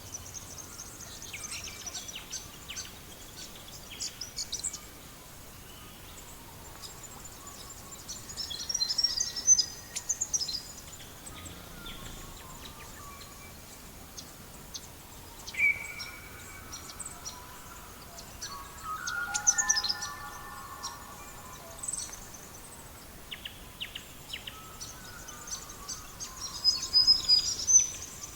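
Songbirds chirping and singing in several bursts over a steady low hiss, with scattered short crackles from a wood fire.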